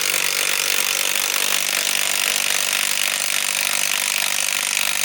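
Cordless mid-torque impact wrench, a DeWalt DCF891, hammering steadily as it drives a lag screw into wood.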